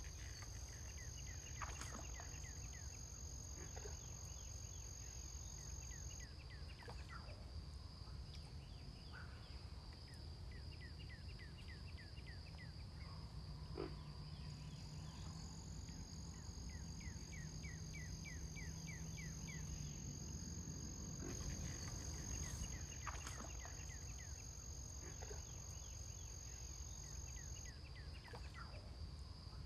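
Bird calls in repeated runs of quick, high, falling chirps, several times, over a steady high-pitched whine and a low rumble.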